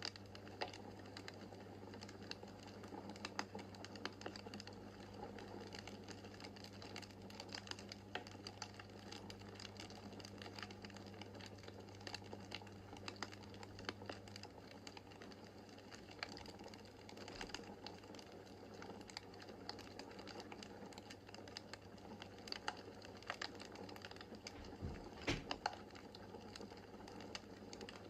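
Wood fire crackling in a fireplace: irregular small pops and snaps over a faint steady hiss, with a few louder snaps close together about 25 seconds in. A faint low hum underneath stops about halfway through.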